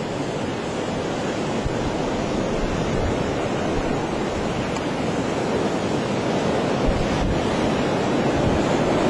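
Strong gusting wind howling across open ground through the truck's open window, a heavy, steady rush with low buffeting on the microphone, building slightly toward the end.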